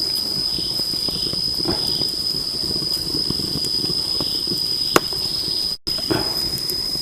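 A steady high-pitched insect drone over the crackle and pops of a wood cooking fire crisping meat in coconut milk, with one sharp pop about five seconds in.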